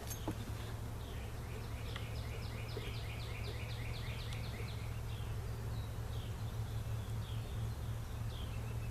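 A songbird singing a quick series of down-slurred chirps, about three a second, from about two seconds in to about five seconds in, then a few scattered single chirps. A steady low hum lies beneath the birdsong.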